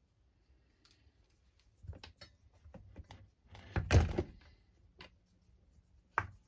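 Small parts of an RC crawler chassis being handled on a workbench: light plastic and metal clicks, a louder clatter of knocks about four seconds in, and one sharp knock near the end.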